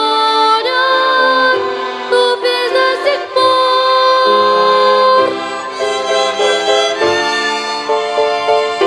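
Children's violin ensemble playing a slow melody in several parts, with long held notes.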